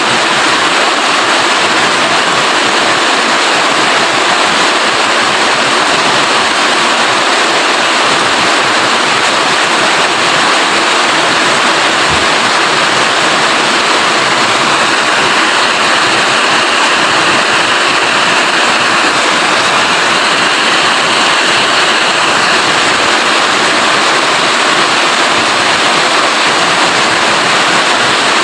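Steady heavy rain, an even hiss of falling water.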